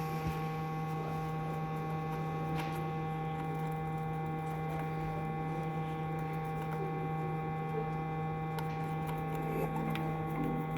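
Steady electrical hum made of several constant tones, with a few faint clicks.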